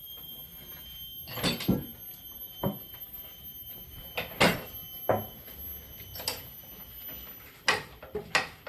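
A string of irregular knocks and clunks, about eight over several seconds, with a faint steady high whine underneath.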